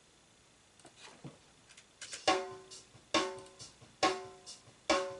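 Acoustic drum kit: a few soft hits, then a steady beat of strong hits a little under a second apart, each with a deep thump and a clear pitched ring.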